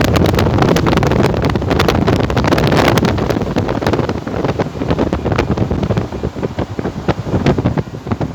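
Strong, gusty wind buffeting the microphone, a heavy rumble with crackling, easing somewhat in the last couple of seconds.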